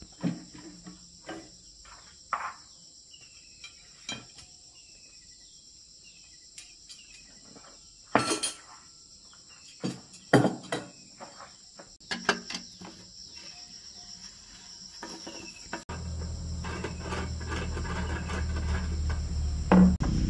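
Insects, crickets and the like, chirping in a steady high drone, with scattered sharp knocks and clinks of metal tools and parts being handled. Over the last few seconds a low rumble builds up.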